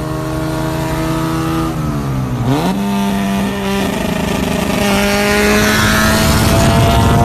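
Honda Civic hatchback's four-cylinder engine under hard driving. The engine note falls about two seconds in, jumps sharply back up as the revs rise, then climbs steadily as the car accelerates.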